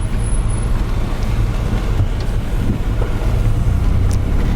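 1964 Chevrolet Corvair Greenbrier van's rear-mounted air-cooled flat-six running, a steady low rumble.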